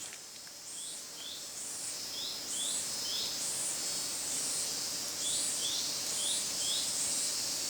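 A bird calling in the jungle: a series of short, high chirps repeated about twice a second, with a brief gap partway through, over faint forest background hiss.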